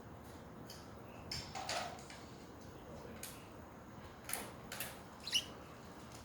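Pet budgerigars giving a handful of short, scratchy chirps and chatter calls over a faint steady hiss, the sharpest call near the end.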